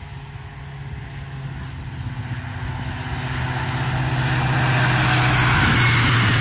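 A diesel locomotive hauling a passenger train approaches and passes: a steady low engine drone growing louder, then the rushing rattle of the coaches' wheels on the rails as the train goes by.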